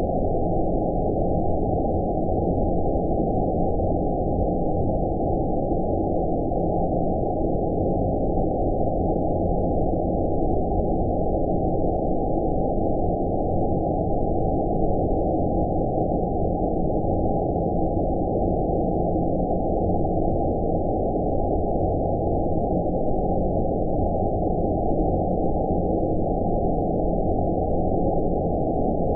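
Steady, deep 'outer space' sleep noise: a continuous low rumbling hiss with everything above about 1 kHz cut off and faint steady tones running through it. It does not change at all.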